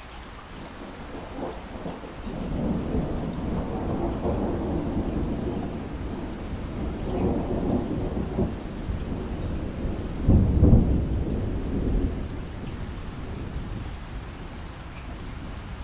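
Rolling thunder over steady rainfall: a low rumble builds about two seconds in, swells in several waves, is loudest a little past the middle, then fades out, leaving the rain.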